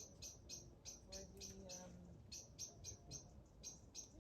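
Faint, regular series of short high chirps from a small bird, about four a second, broken by two short pauses.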